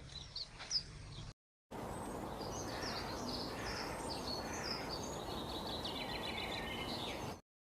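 Small birds chirping and trilling over a steady outdoor hiss, starting after a brief gap and cutting off abruptly near the end.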